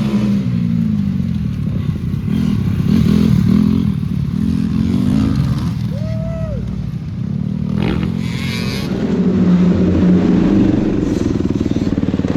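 Motocross dirt bike engine revving up and down as it is ridden, the pitch rising and falling with the throttle, then running steadier at low revs near the end.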